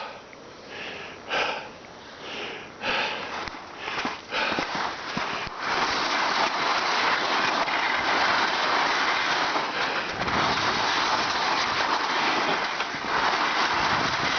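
A person breathing hard in short, repeated breaths, then from about five seconds in a loud steady rushing hiss takes over, like wind or rushing water.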